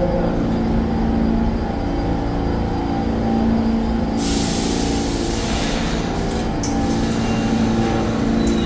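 New York City subway train running with a steady rumble and hum, and a hiss of air about four seconds in that lasts around two seconds, typical of pneumatic brakes or doors.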